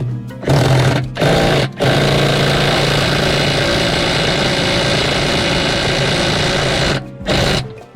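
A motor-driven tool with a steady hum and a loud rushing hiss. It is switched on in two short bursts, runs steadily for about five seconds, stops, then gives one more short burst near the end.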